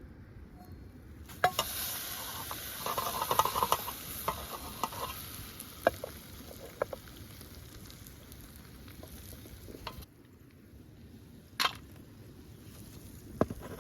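Food sizzling in a pan, with scattered clicks and scrapes of a utensil stirring it. The sizzling starts about a second in and stops suddenly; a single sharp click comes near the end.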